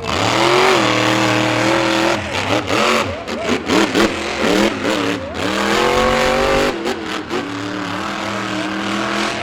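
Monster truck engines revving hard under full throttle, starting suddenly, climbing in pitch and holding, wavering in the middle, then holding high again before easing off.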